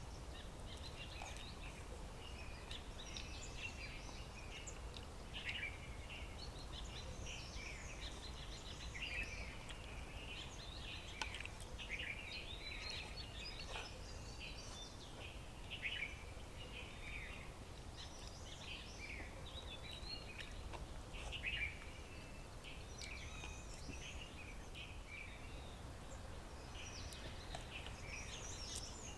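Several wild birds chirping and calling in short, overlapping phrases throughout, over a steady low background rumble.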